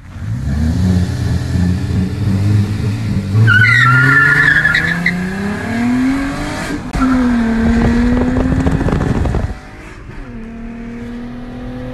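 Car engine accelerating hard, its note climbing steadily, with tyres squealing about four seconds in. Near seven seconds the note drops and climbs again, then settles into a quieter steady drone for the last couple of seconds.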